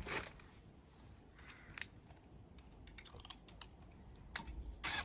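Scattered light metallic clicks and taps of wheel bolts, a spacer and hand tools being handled while refitting a car wheel, a few quick clicks in the middle and louder knocks near the end.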